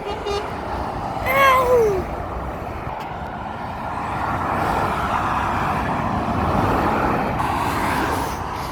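Road traffic with trucks going by, the noise swelling as a vehicle passes in the middle of the stretch. About a second and a half in there is a short pitched call that slides down in pitch.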